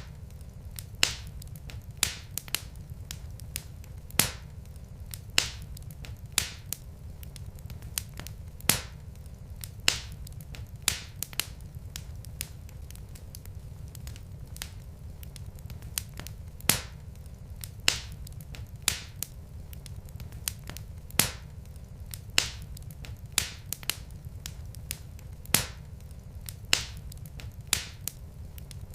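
Wood fire crackling in a fireplace: irregular sharp snaps and pops from the burning logs, about one or two a second, over a steady low rumble.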